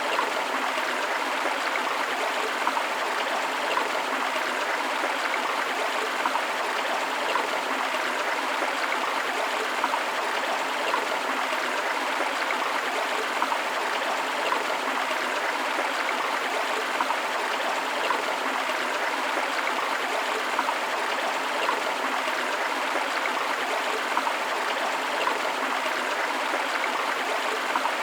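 A river or stream rushing steadily over rocks, a continuous splashing water noise with small bright splashes and gurgles.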